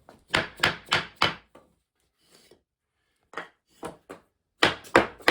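Sharp wooden knocks as an interlocking sub-floor tile is struck to seat its edge into the next one: four quick blows about a second in, a few lighter taps, then another quick run of blows near the end.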